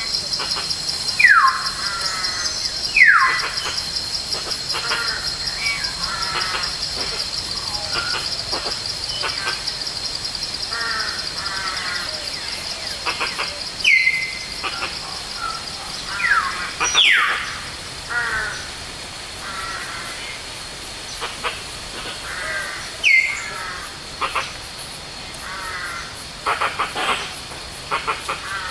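Forest birdsong: several loud whistled calls that fall sharply in pitch, the loudest about a second in, near three seconds and around 14, 17 and 23 seconds, among many quicker chirping phrases. Under them runs a steady, rapidly pulsing high insect buzz.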